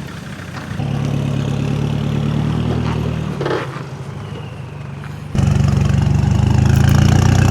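Off-road vehicle's engine running under load, getting louder about a second in, easing off briefly, then abruptly much louder about five seconds in.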